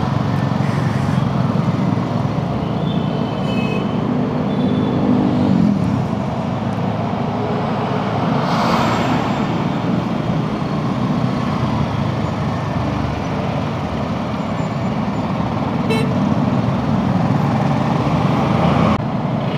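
Steady road and traffic noise heard while riding a scooter, with a vehicle horn tooting briefly a few seconds in.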